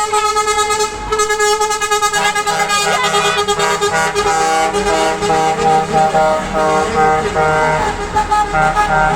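Truck air horns sounding: one steady held blast, then from about two seconds in several horn tones changing pitch in steps like a melody horn playing a tune, over the low running of the truck's diesel engine.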